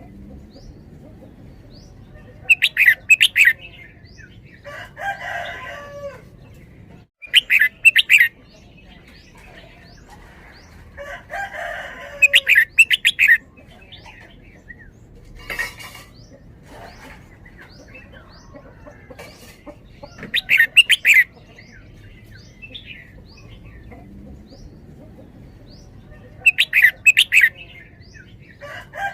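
Red-whiskered bulbul singing: about five loud, short phrases of rapid notes every few seconds, with softer, lower calls in between and faint chirps in the background.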